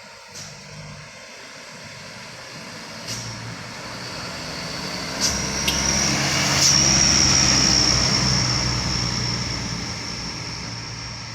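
A heavy truck's engine pulling up a steep incline, growing louder over about seven seconds and then fading as it passes. A few sharp clicks or rattles come through, and a steady high whistle joins about halfway in.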